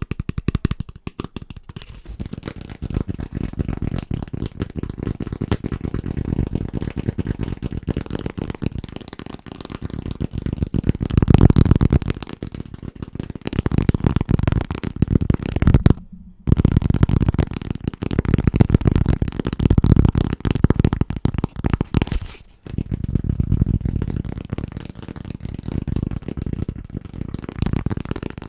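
Very fast, dense fingertip tapping on household objects, a continuous flurry of dull, low-pitched taps. It cuts out for a moment about 16 seconds in and changes character about 22 seconds in as it switches to another item.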